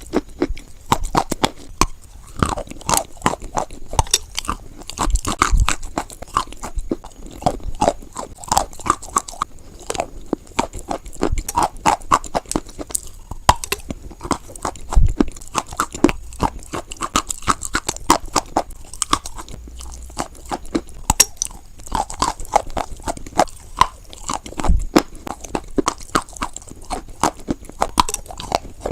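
A person biting and chewing white chalk, with dense, irregular crunching and sharp cracks throughout.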